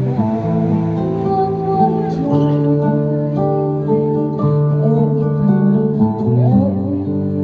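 Music: a female singer performing a song over instrumental accompaniment of long held chords that change every second or two.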